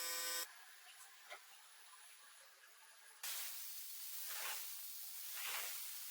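A small electric tool's buzzing whine cuts off just after the start. About three seconds in, a steady spraying hiss begins and swells twice.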